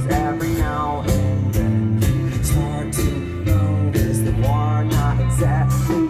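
Live rock band playing an instrumental break: a guitar lead with bending notes over steady bass and drums.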